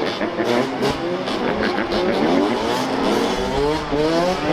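Several dirt bike engines revving together, their overlapping pitches repeatedly rising and falling.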